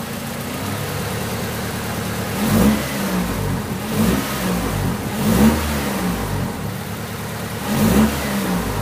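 Honda Civic VTEC four-cylinder engine idling, then revved in about four short throttle blips, each rising and falling in pitch. The revs are given while the battery charging voltage is checked under engine speed.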